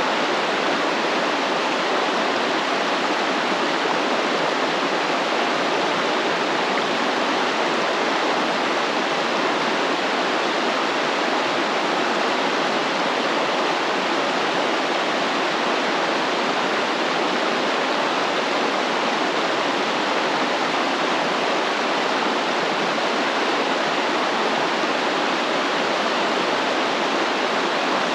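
A stream flowing: steady rushing and splashing water.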